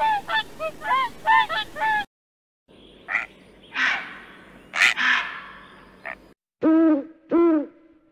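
A swan's quick run of honking calls, then after a brief gap a heron's harsh squawks, then an owl's two deep hoots near the end.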